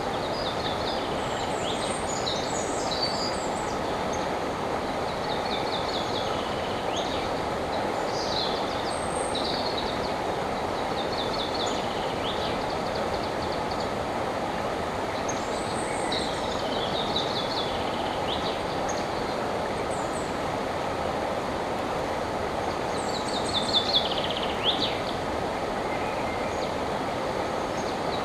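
River water rushing steadily over its bed, with songbirds singing short, quick trilled phrases above it several times, the loudest near the end.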